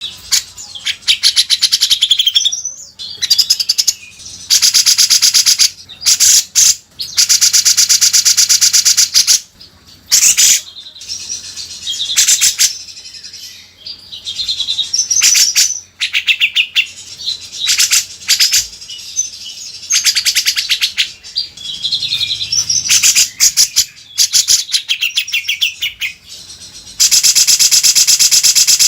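Cucak jenggot (grey-cheeked bulbul) singing loudly and vigorously: repeated runs of very fast rattling chatter, each lasting a second or two, alternating with shorter high warbled phrases.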